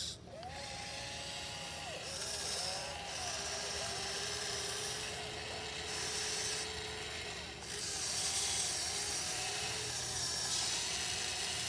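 Electric motors of a non-hydraulic 1580 RC excavator whining in short runs as the arm, swing and bucket move, their pitch gliding and stopping. Gritty scraping of dirt runs under the whine.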